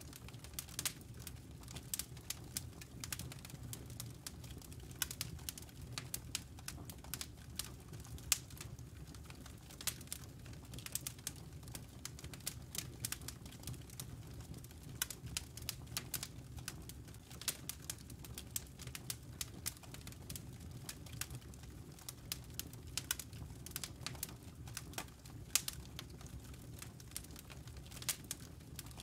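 Wood fire burning in a fireplace, logs crackling with many irregular sharp pops and snaps over a low steady rumble.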